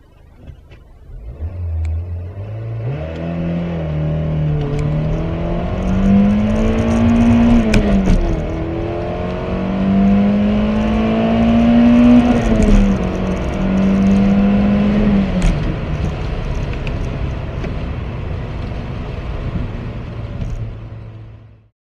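Peugeot 206 RC's 2.0-litre four-cylinder engine accelerating hard from a standstill, heard from inside the cabin: its note climbs through each gear and drops back at each gear change, then holds a steadier, lower note near the end.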